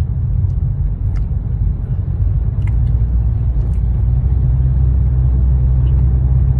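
Steady low rumble of a car's engine and road noise, heard from inside the cabin, growing slightly louder toward the end.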